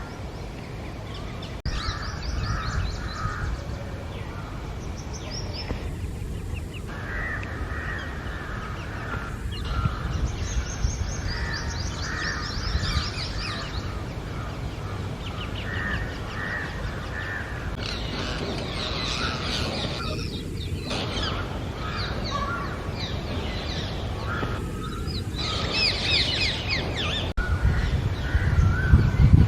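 Rose-ringed parakeets calling in clusters of short, rapidly repeated notes, with a steady low rumble underneath that grows louder near the end.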